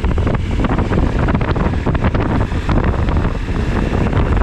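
Wind rushing and buffeting over the camera microphone on a moving motorcycle, a loud, steady noise heavy in the lows with constant irregular gusts.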